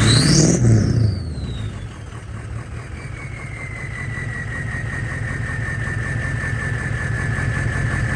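Straight-piped 6.0 Powerstroke turbo-diesel V8 of a 2004 Ford F-350 revved once and falling back to idle about a second in. The turbo whistle climbs with the rev, then glides down and settles into a steady high whistle over the idle.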